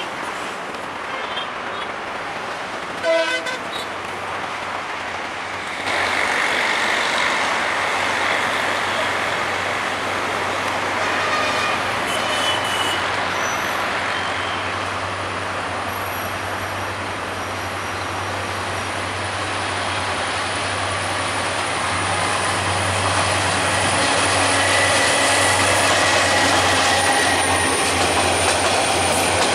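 Diesel-electric locomotive hauling an intercity train approaching and passing close by. About six seconds in the sound steps up into a steady rumble with a low engine hum, which carries on as the coaches roll past. A short horn toot sounds about three seconds in.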